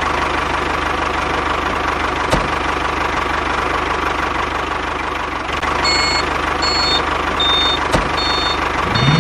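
DIY mini tractor's engine running steadily with a fast, even throb. About six seconds in, a run of short high beeps starts, repeating roughly every 0.7 seconds, and two sharp clicks stand out along the way.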